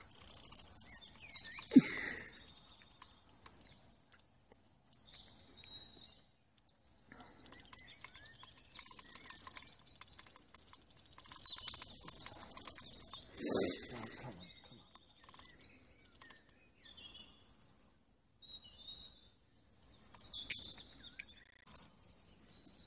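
A small songbird singing in repeated bursts of rapid, chattering trills. There is a sharp knock about two seconds in and a brief low rush about halfway through.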